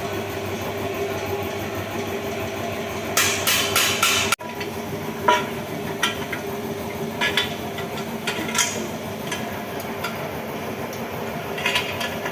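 Hand tools knocking and tapping on metal during work on a motorcycle exhaust: a quick run of knocks about three seconds in, then scattered single taps, over a steady hum.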